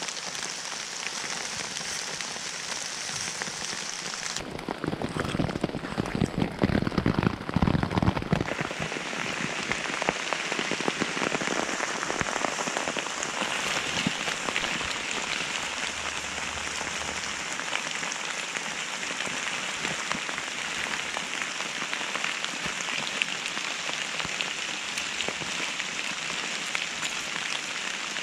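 Steady rain falling on leaf litter. About four seconds in, a few seconds of louder low rumbling and thumps break in.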